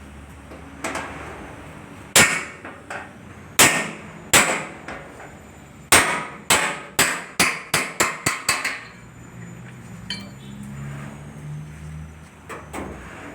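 Hammer striking metal in a series of sharp blows, each ringing briefly. A few come spaced out, then a quick run of about ten in the middle, then two faint taps near the end.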